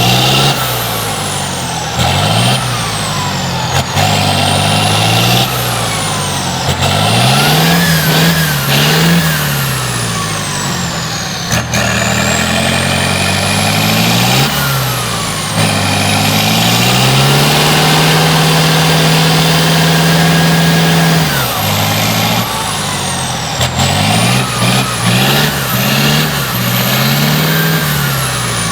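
Tatra 148 truck's air-cooled V8 diesel revving up and down again and again under load, with one longer steady high rev held for a few seconds about halfway through.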